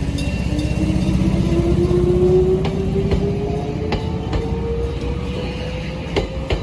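Jōmō Electric Railway electric train running over a level crossing, its motor whine rising steadily in pitch as it picks up speed. Under it is a heavy rumble, with sharp clicks from the wheels over the rail joints every second or so.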